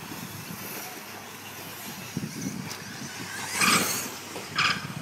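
Electric 1/10-scale RC off-road trucks racing: a steady mix of motor whine and tyre noise, with two short, loud, high-pitched squeals in the second half.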